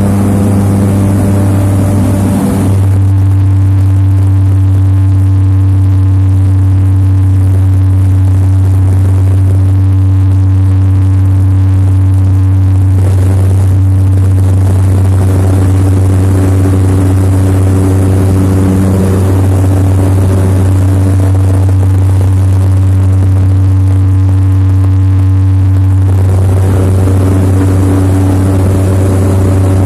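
Seaplane's propeller engine running steadily under power, heard from inside the cabin as a loud, even drone. The upper part of the sound thins out a few seconds in and comes back near the end.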